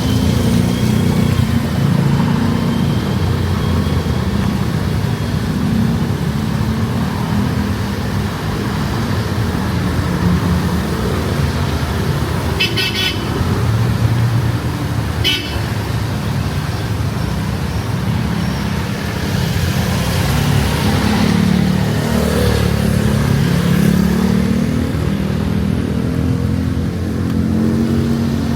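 Street traffic with motor vehicle engines running close by in a steady low rumble. Two short horn toots about 13 and 15 seconds in.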